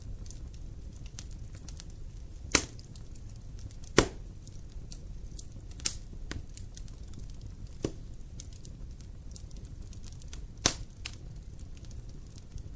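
Fire burning in a fireplace: steady crackling with a low rumble, and five loud sharp pops spread irregularly through it.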